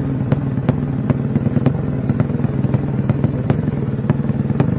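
Motorcycle engine running steadily at an even pitch, with sharp irregular clicks over it.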